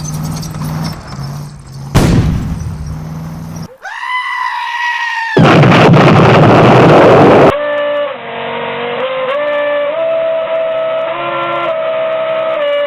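A run of short, different car sound clips cut one after another: an engine running with a low hum, a sudden loud noisy blast about two seconds in, a held tone for about a second and a half, a loud noisy burst for about two seconds, then a tune of stepped notes for the last five seconds.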